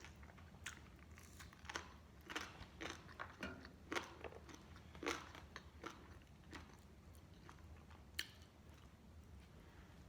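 Close-up eating sounds of crispy fried chicken: crunchy bites and chewing, a cluster of crackly crunches in the first half and a single one near the end.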